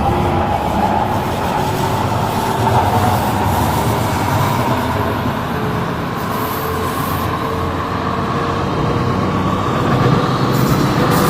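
MTR Tseung Kwan O line C-Train running between stations: a steady rumble of wheels on rail and running noise, heard from on board.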